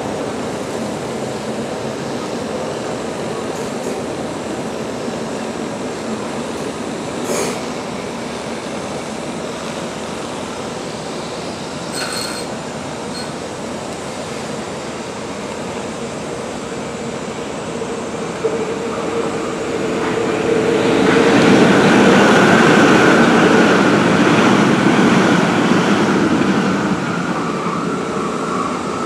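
Engineering locomotive slowly towing a new train along depot track: a steady rumble of the train and its wheels on the rails, with a couple of sharp metallic clinks. About two-thirds of the way through it grows louder as it comes closer, and a sustained wheel squeal sets in and holds to the end.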